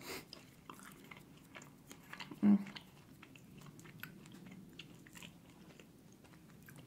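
Chewing of a piece of caramel popcorn, with many small crisp clicks, and one short hum-like voice sound about two and a half seconds in.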